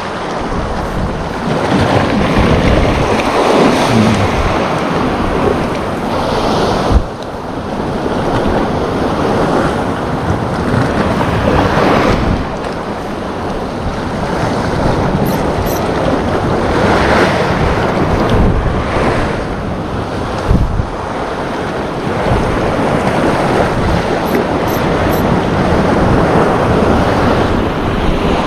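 Sea waves washing onto the shore in repeated swells, with wind buffeting the microphone. A single sharp knock about seven seconds in.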